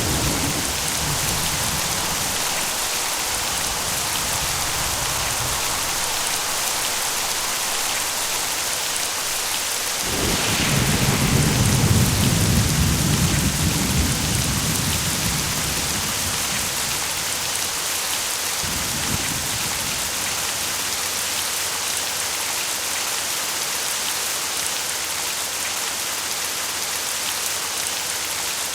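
Steady heavy rain falling, with a roll of thunder that starts abruptly about ten seconds in, swells and dies away over the next several seconds.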